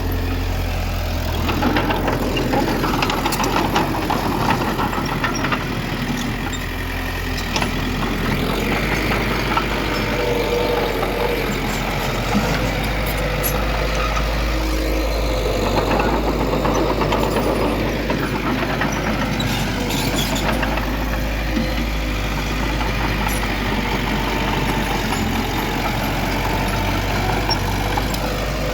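Heavy diesel construction machinery, a bulldozer and dump trucks, running steadily with the engine load swelling and easing, and a few sharp metallic clanks.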